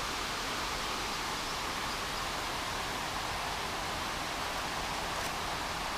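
Steady rushing of water cascading down a dam spillway waterfall, an even hiss with no let-up.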